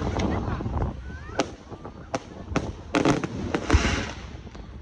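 Aerial fireworks shells bursting overhead: a string of about six sharp bangs at irregular spacing, and a brief crackling hiss about three and a half seconds in.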